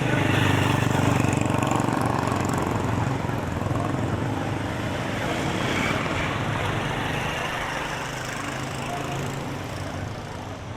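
Engine of a passing motor vehicle running over street noise, loudest about a second in, then slowly fading away.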